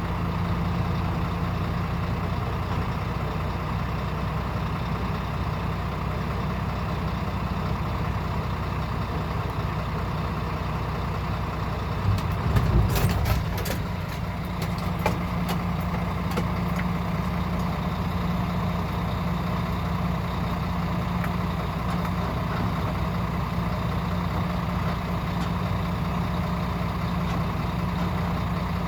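Heavy diesel dump truck engine running steadily at a constant pitch. About twelve seconds in comes a brief burst of knocks and rattles.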